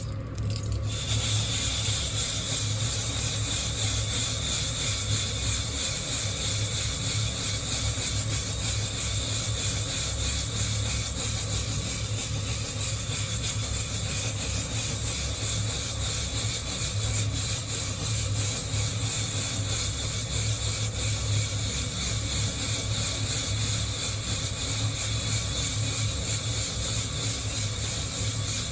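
Coffee beans being shaken continuously in a hand-held wire-mesh roaster: a steady rustling, rubbing hiss of beans against the mesh that steps up about a second in, over a low steady hum.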